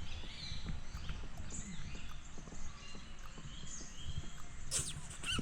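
Small birds chirping in short, scattered calls over a low rumble of outdoor background noise, with a sharp hissing rustle near the end.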